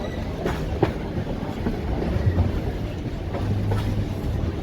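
A train rolling along the track: a steady low rumble with a few sharp clicks of wheels over the rails, and a low hum joining about three seconds in.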